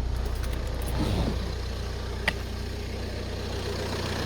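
Ford Mondeo Mk4 1.8 TDCi four-cylinder diesel engine idling steadily, warmed up after a coolant refill. There is a single sharp click a little over two seconds in.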